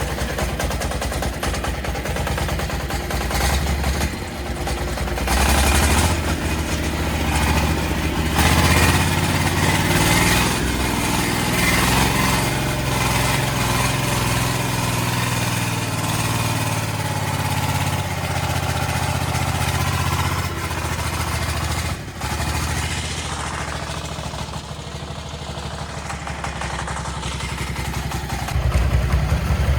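Four-wheel-drive tractor's engine running, its level shifting a few times, with a brief dip a little past two-thirds of the way and a rise near the end.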